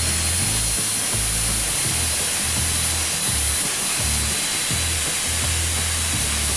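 CNC router spindle running with a steady hiss and a thin high whine, under background music with a stepping bass line.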